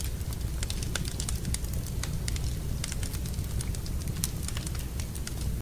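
Wood fire burning in a fireplace, with a steady low rumble and irregular sharp crackles and pops throughout.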